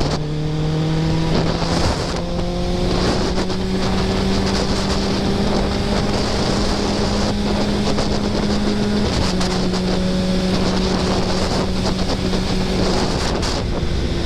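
Kawasaki ZX-10R's inline-four engine running under way, its note climbing slowly and then stepping down once about nine seconds in at a gear change. Wind rushes over the microphone throughout.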